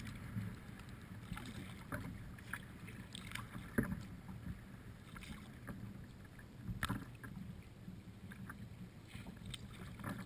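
Kayak paddling: water splashing from the paddle strokes, with a few sharp knocks, the strongest about a third of the way in and again past halfway, over a steady low rumble.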